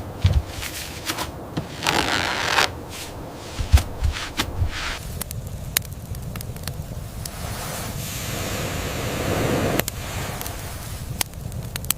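Irregular sharp cracks and short scraping bursts over a steady rushing, wind-like noise, which swells and then cuts off suddenly near the end.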